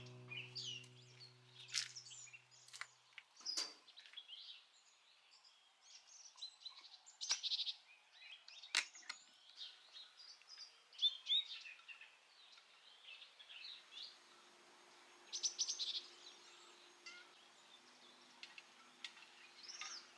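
Small birds chirping and twittering in short, scattered calls, with a few sharp clicks among them. The last notes of background music die away in the first second.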